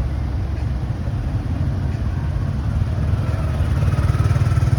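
Motorcycle running steadily on the move, a continuous low engine and road rumble that grows a little louder about three seconds in.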